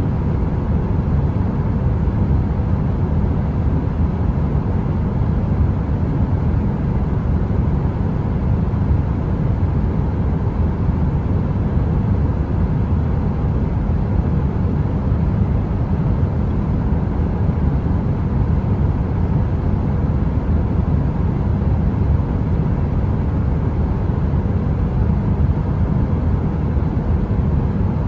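Heater running: a steady, deep rushing noise with a faint even hum and no crackle.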